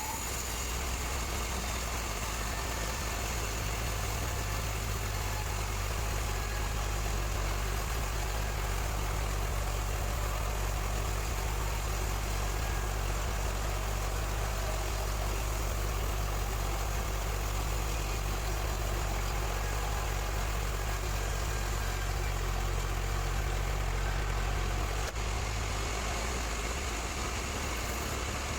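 Steady low engine or motor hum running at an even speed, with no change in load.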